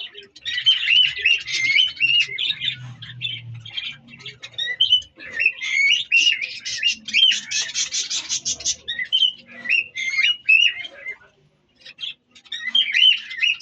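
Budgerigars chattering and warbling, a steady stream of quick squawks and chirps. There is a fast run of rapid repeated chirps about halfway through and a short lull near the end.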